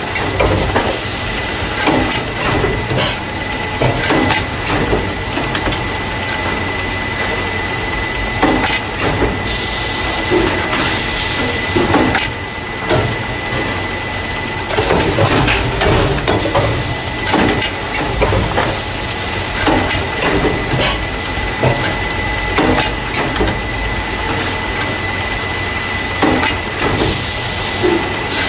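Carton caser packing paper drink cartons into plastic crates, running with a steady clatter of knocks and clicks over a constant high tone. Bursts of hiss come about ten seconds in and again near the end.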